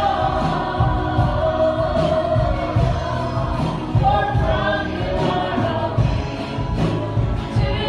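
Congregational worship singing: a group of voices singing a gospel or Christian song with instrumental accompaniment and a strong bass.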